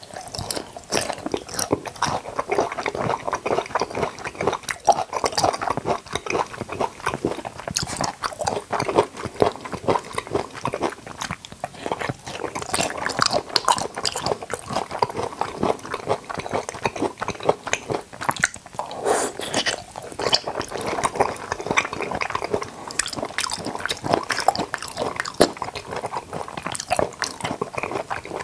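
Close-miked chewing and biting of jackfruit and toddy palm fruit pieces: a continuous stream of mouth clicks and crunches.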